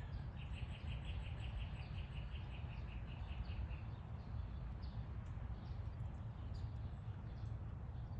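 A small songbird singing a trill of rapid, evenly spaced high notes, about five a second, for roughly three seconds, followed by scattered short chirps, over a steady low rumble.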